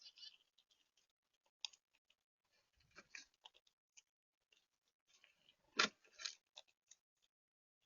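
Birds and squirrels feeding at a bird feeder: scattered faint clicks and small cracks of seed being pecked and cracked, with one louder knock about six seconds in.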